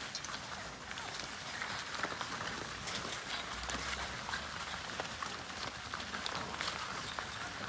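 A group of French Bulldog puppies running about, their paws and claws making many quick, irregular clicks.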